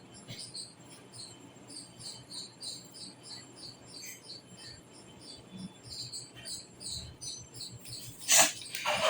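Insect chirping in a steady rhythm, about three short high chirps a second, cricket-like. Near the end, a loud sudden sound, then a second one.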